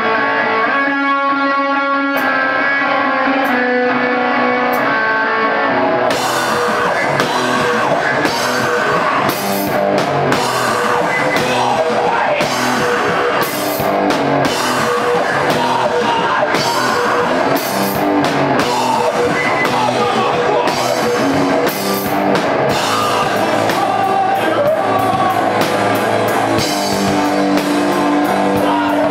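Live rock band playing: a guitar rings out sustained notes with a few light cymbal taps for the first few seconds, then the drums and full band come in about six seconds in and keep playing loudly.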